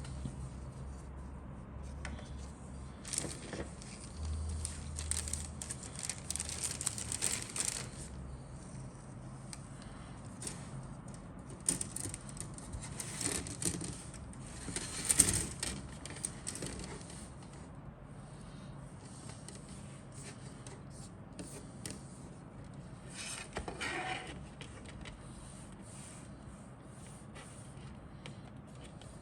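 Rustling and light clicking of a plastic model kit's parts and packaging being handled, in several bouts with quieter gaps between.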